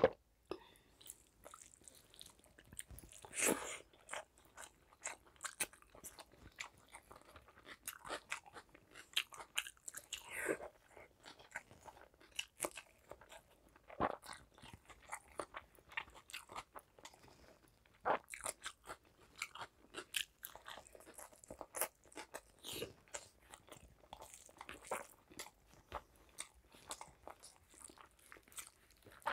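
Close-miked eating sounds: chewing and crunching with irregular wet smacks and clicks, along with the squish of rice and curry being mixed by hand on a plate.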